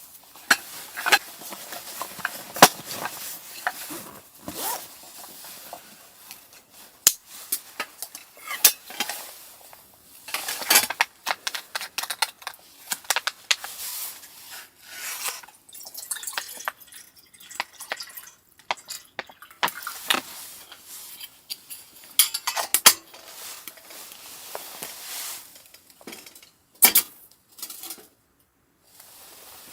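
Irregular clinks, clatters and scrapes of metal utensils against pots and pans, as in cooking.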